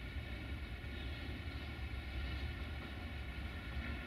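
Freight train wagons rolling along the rails at a distance: a steady low rumble.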